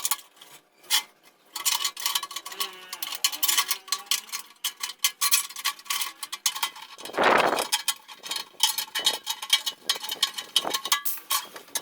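Rapid, irregular clicks and metallic clinks of hand tools and loose metal parts being handled during workshop work, with one louder noisy burst lasting under a second about seven seconds in.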